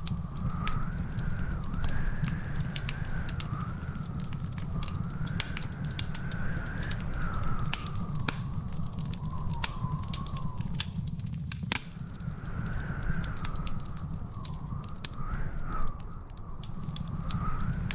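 Wood fire crackling, with frequent sharp pops over a steady low rumble. A thin whistling tone wavers up and down in pitch behind it.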